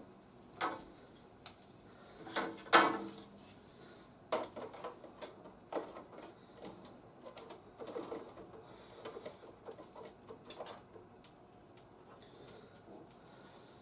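Hard plastic toy parts handled, with irregular clicks and knocks, the loudest a couple of seconds in and a run of smaller clicks near the middle before it goes quieter.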